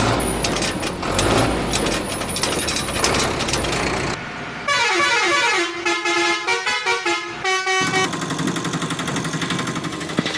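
Heavy vehicle noise, then a vehicle horn sounding a run of changing notes for about three seconds from the middle of the clip, followed by an engine running.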